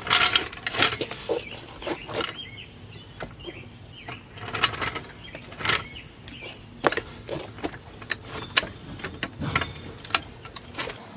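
Scattered clicks, knocks and short scrapes of hand work on a car's exhaust tip as the man tries to get the old tip off, coming at irregular intervals.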